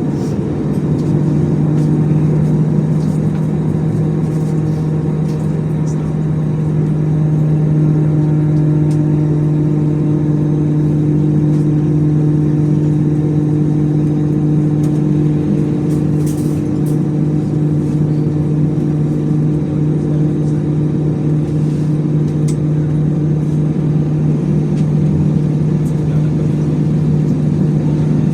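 Airbus A321's CFM56 jet engines and cabin noise heard from inside the cabin: a loud, steady drone with a low hum that strengthens about a second in and then holds.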